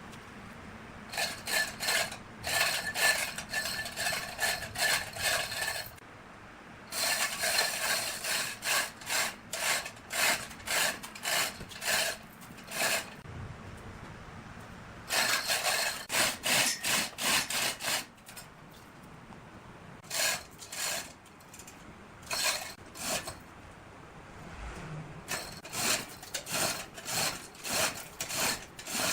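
A hand tool working wood in back-and-forth strokes, like hand sawing or rasping, about two to three strokes a second in runs separated by short pauses.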